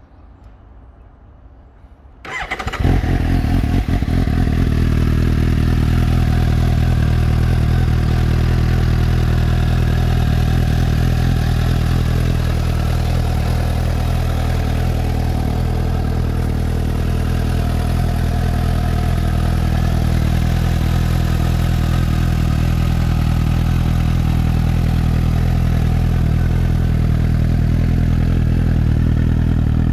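Suzuki GSX-S750's inline-four engine starting about two seconds in, then idling steadily.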